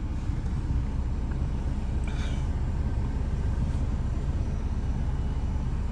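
Maruti Swift diesel engine idling steadily with a low, even rumble.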